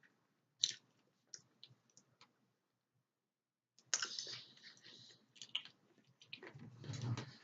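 Sticky mouth clicks and lip smacks of someone eating peanut butter: a few separate clicks at first, then a denser run of wet smacking and rustling from about halfway through.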